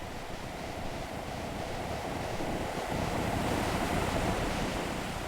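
A steady rushing noise, swelling slightly through the middle.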